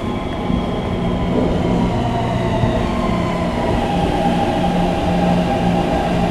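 Electric passenger train running: a steady low rumble with thin whining tones above it, and no breaks.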